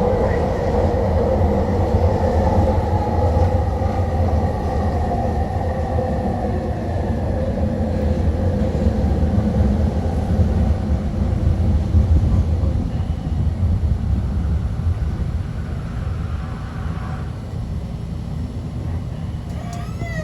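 Sky train running, heard from on board: a steady rumble of wheels on the track, with a whine that fades over the first several seconds.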